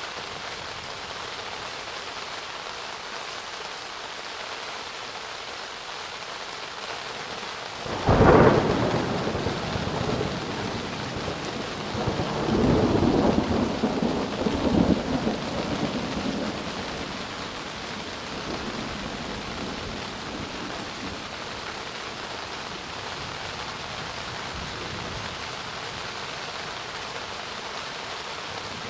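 Steady heavy rain with a sudden sharp thunderclap about eight seconds in, followed a few seconds later by rumbling thunder that rolls on for several seconds before dying back under the rain.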